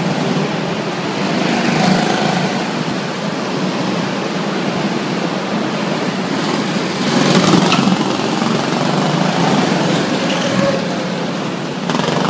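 Several go-kart engines running as the karts drive around an indoor track, echoing in the hall. The sound swells as karts come nearer about halfway through.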